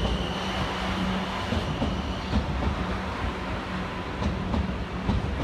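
Two coupled Class 444 electric multiple units running through the station, wheels clicking over rail joints, with a steady low hum and a high whine that stops about two seconds in.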